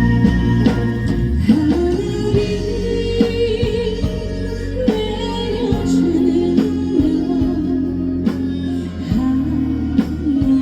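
A live band playing a song's instrumental introduction: a lead melody line over sustained bass and a steady drum beat.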